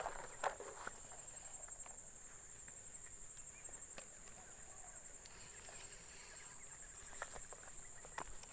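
Steady high-pitched insect trill, with a few sharp clicks and knocks about half a second in and near the end.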